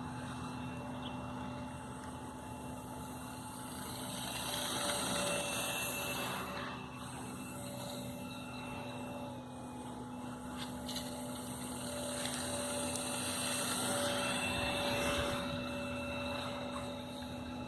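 Motor and propeller of a radio-controlled seagull kite droning steadily in flight, swelling louder twice.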